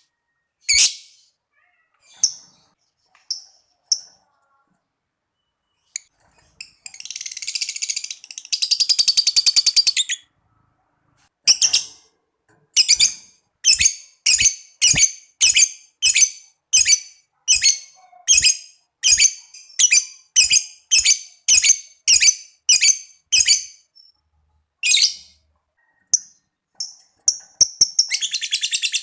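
Lovebird calling: a few scattered shrill chirps, then a long rapid chattering trill (ngekek) about seven to ten seconds in. After that comes a regular run of single sharp chirps, nearly two a second, and another rapid trill begins near the end.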